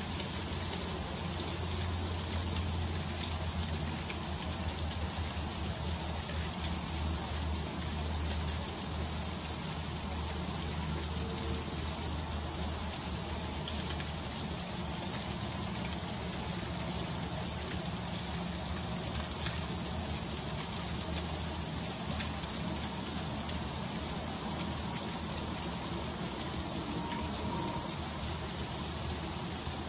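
Freezing rain falling steadily in an ice storm: an even, high hiss of drops landing on surfaces, with a low steady hum underneath.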